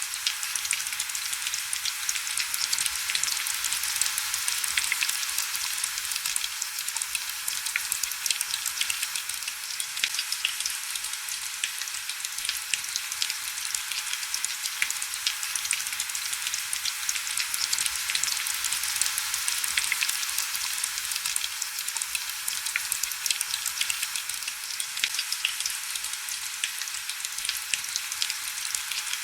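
Heavy rain falling steadily: a dense hiss of countless small drop ticks, with almost no low rumble.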